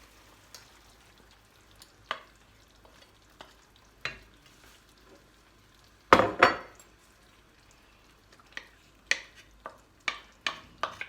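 Grated tomato sauce being scraped into a pot of cooking mussels and stirred, with a faint sizzle underneath. Scattered knocks and clicks of a spoon against the pot and shells: one loud knock about six seconds in, then a run of quick clicks near the end.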